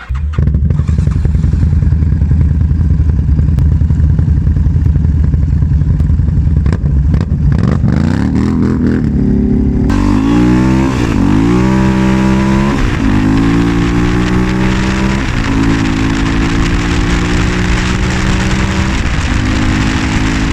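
Quad bike engine running under way, steady at first; about halfway a rushing hiss comes up and the engine revs climb and drop several times as it accelerates and shifts.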